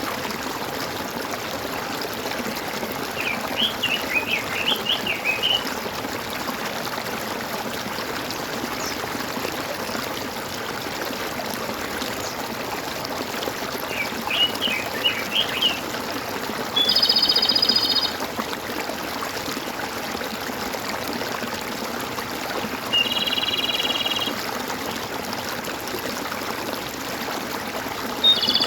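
Steady gurgling of running water with birds calling over it: two short runs of warbling chirps, and three buzzy, even calls of about a second each, spaced roughly six seconds apart, in the second half.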